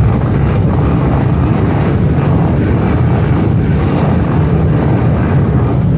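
Several police motorcycle engines running together just after starting, a loud, steady, low rumble.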